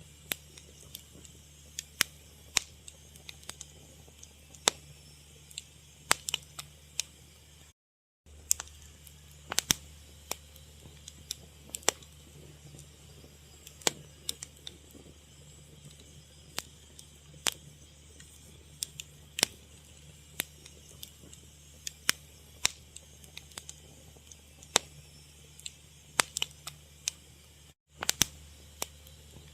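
A fire crackling, with irregular sharp pops and snaps over a steady low background. The sound cuts out completely for a moment twice.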